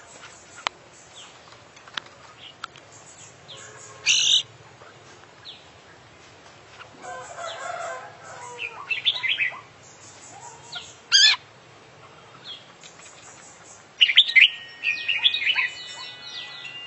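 Oriental magpie-robin (kacer) singing in loud, separated bursts of sharp whistles and chirps, with quieter chirps between them. The loudest bursts come about four seconds in, around eleven seconds, and as a rapid run of phrases near the end. Its song is rich in phrases copied from other birds.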